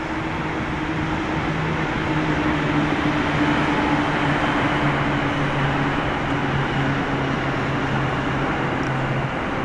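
Steady running noise of a vehicle, with a low hum that slowly sinks in pitch.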